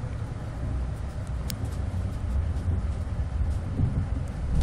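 Renfe AVE high-speed train running, a steady low rumble heard inside the passenger cabin, with a few faint ticks.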